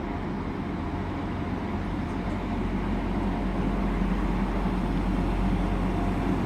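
Class 175 diesel multiple unit approaching slowly, its diesel engines giving a steady low drone that grows gradually louder.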